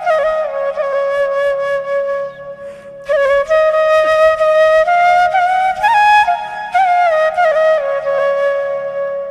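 Background music: a solo flute playing a slow melody of long held notes with small slides between them, pausing briefly about three seconds in.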